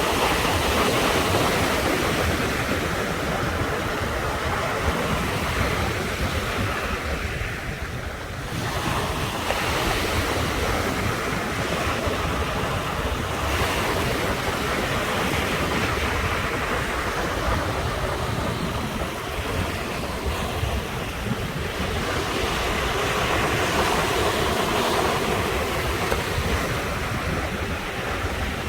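Sea waves breaking and washing ashore, a continuous surf that swells and eases every several seconds.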